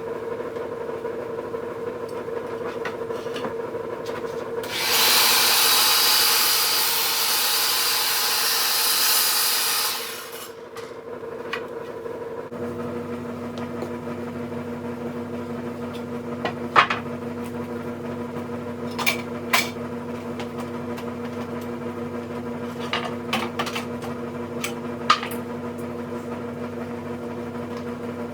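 A power miter saw cuts through a wooden board for about five seconds, starting about five seconds in, over a steady machine hum. After the cut the hum deepens and carries on, with a few sharp knocks of wood being handled.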